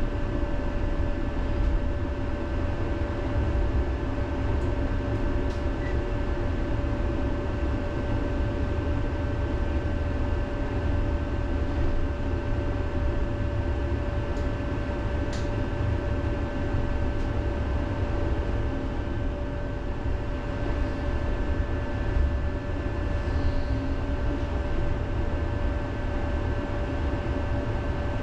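Electric city tram running, heard from inside the car: a steady low rumble of wheels on the rails with a constant hum over it and a few faint clicks.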